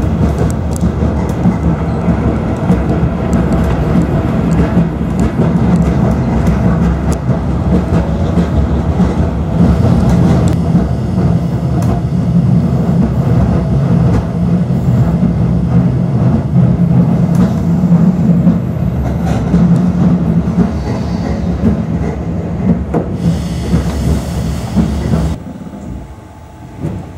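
Renfe Altaria train running at speed, heard from inside the carriage: a steady low rumble with scattered clicks and clatter from the wheels on the rails. About 25 seconds in it cuts sharply to a much quieter rumble as the train runs slowly.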